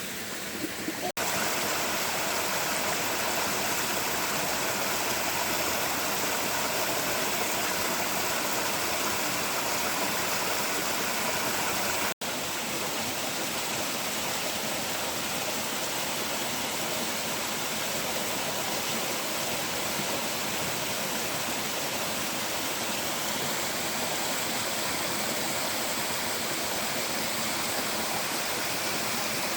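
Steady rushing of a forest stream's running water, an even noise with no let-up. It drops out for an instant twice, about a second in and near the middle.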